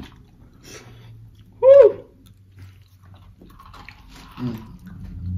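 Close-up eating sounds: chewing and small mouth clicks and smacks, broken about two seconds in by a short, loud, pitched "mm" of relish. A low hummed "mm" swells near the end.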